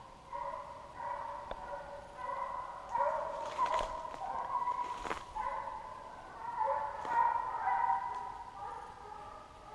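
A pack of beagles baying in long, overlapping calls as they run a deer's trail, with a few sharp clicks in between.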